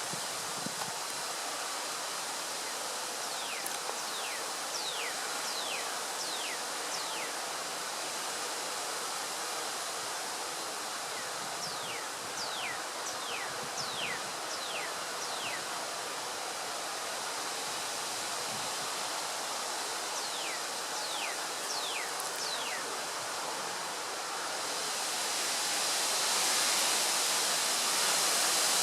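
Wind gusting through trees, leaves rustling in a steady rush that swells louder near the end as a stronger gust comes through. A bird sings three runs of quick falling whistled notes over it.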